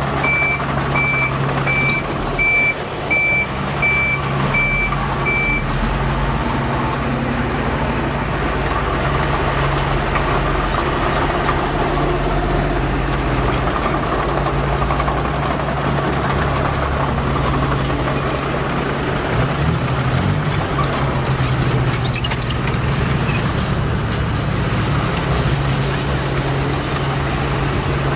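Heavy earthmoving machine's diesel engine running steadily, with a reversing alarm beeping for the first five or six seconds. The engine note wavers briefly about twenty seconds in.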